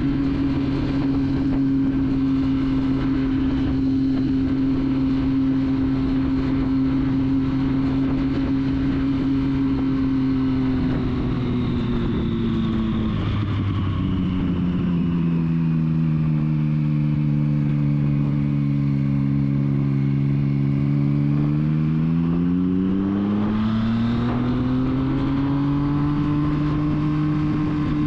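Triumph Street Triple's three-cylinder engine under way at steady revs. About halfway through the note drops as the rider rolls off, sags lower for several seconds, then climbs back up as the bike accelerates and settles at steady revs again.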